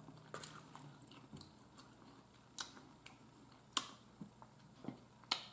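Quiet close-up chewing of food, with a few short sharp clicks scattered through it; the loudest come nearly four seconds in and near the end.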